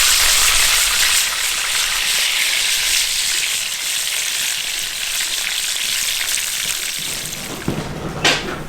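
Steady sizzling hiss of food frying in hot fat, with fine crackle. About seven seconds in it thins out and a sharp click comes near the end.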